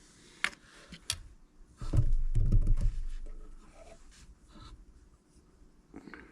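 Hands handling small tools and parts on a workbench: two sharp clicks, then a louder stretch of knocking and rubbing about two seconds in, followed by fainter scattered clicks.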